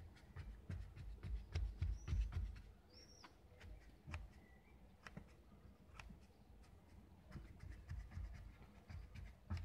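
Faint hand-work noises as paper napkins are pushed into the gap along a car door's window seal: scattered light clicks and scratches, with a few dull knocks and a couple of short high squeaks about two to three seconds in.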